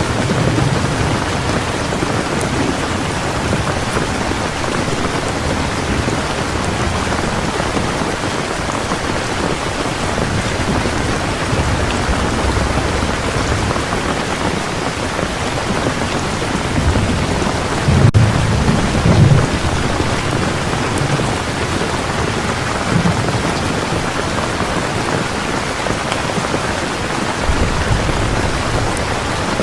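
Heavy rain falling steadily, with low thunder rumbles rising and fading under it. The loudest rumble comes about two-thirds of the way through.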